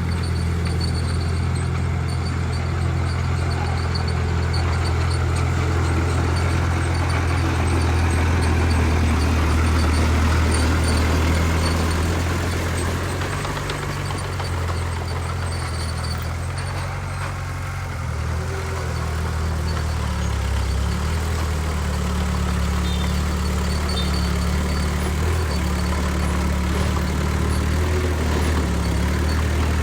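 Heavy diesel engine of earthmoving machinery running with a steady low drone. Its pitch and loudness shift a little around the middle, as the load changes.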